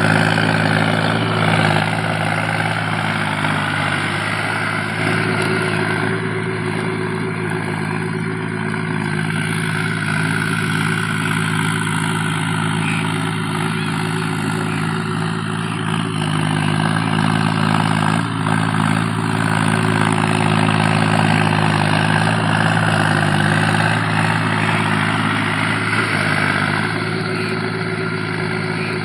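Tractor diesel engine running steadily, its speed rising and easing slightly now and then.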